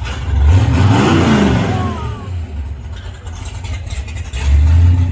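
A car engine running, revved up and back down about a second in, over a steady low engine hum.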